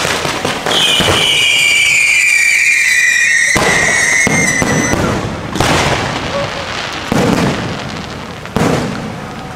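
Aerial fireworks going off: a long whistle falls in pitch for about four seconds, then loud bursts come about every second and a half.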